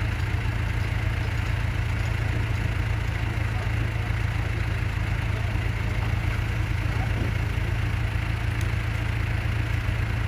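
Motorboat engine running steadily at idle, a deep even hum with no change in speed.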